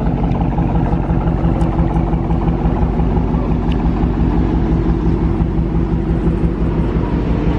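A car engine idling steadily, a low even hum that holds at one pitch.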